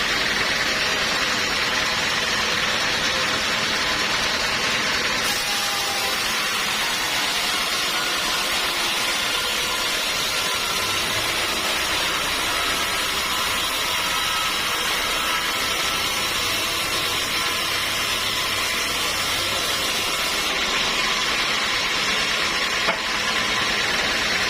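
Sawmill machinery running steadily with a hissing whir. A brighter, higher hiss joins in about five seconds in and drops away near the end, and a single sharp click follows shortly after.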